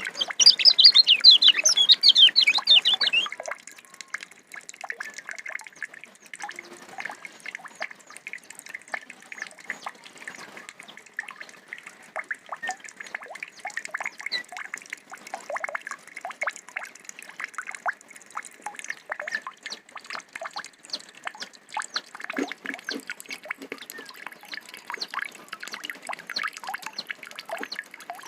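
Kecial (a white-eye) singing. A loud, rapid, high twittering warble lasts about three seconds, then gives way to a long run of quick, quieter chips and clicks.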